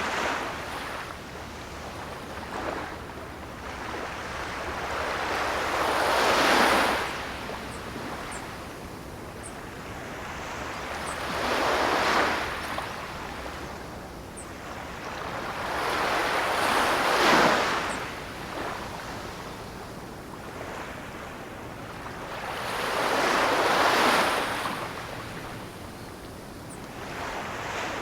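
Ocean surf: waves surging in with a rush and falling away, four swells about five to seven seconds apart.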